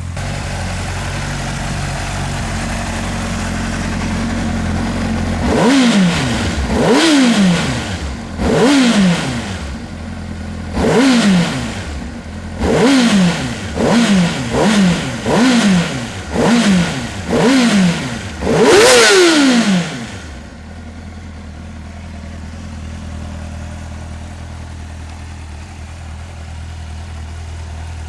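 Honda CBR600RR sportbike's inline-four engine idling, then revved hard about ten times in quick succession, each blip rising sharply and falling back, before settling back to idle.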